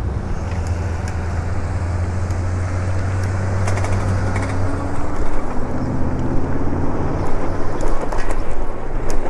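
Road noise while riding an e-bike in traffic: wind rushing over the microphone and the engine hum of motor vehicles nearby. A low hum stops about halfway through, and a pitch rises over a few seconds in the second half.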